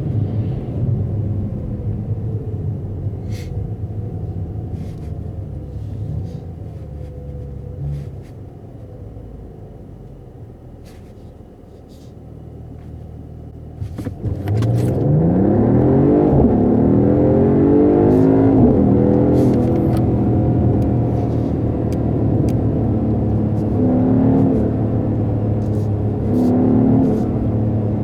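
Mercedes-AMG GT43 4-Door's turbocharged six-cylinder engine on the move: it runs steadily, eases off and goes quieter, then about halfway through the throttle opens hard and the revs climb sharply under acceleration before it settles into loud, sustained running.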